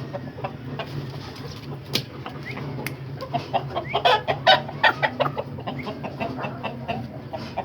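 Aseel chickens clucking in short, rapid repeated calls that grow busier and louder from about three seconds in, over a steady low hum.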